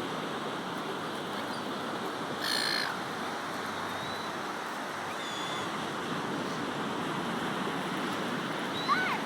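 Steady surf wash with seagulls calling over it: one harsh squawk about two and a half seconds in, a few faint cries, and a short rising-and-falling call near the end.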